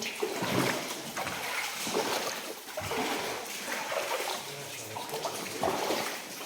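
Footsteps in wellington boots wading through water, splashing and sloshing unevenly with each step.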